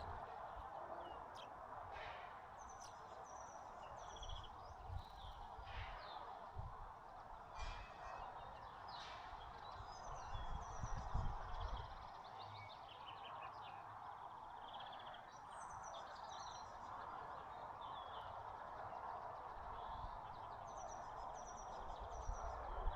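Small songbirds chirping and twittering in short repeated calls and trills throughout, over a steady background rush.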